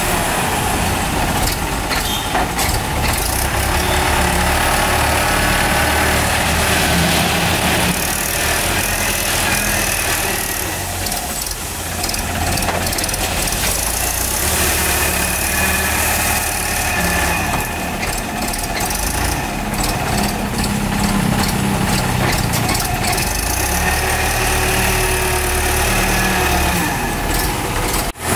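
Mahindra 575 DI tractor's four-cylinder diesel engine running continuously while it works a front-end loader, its note rising and falling with the work. It dips briefly just before the end.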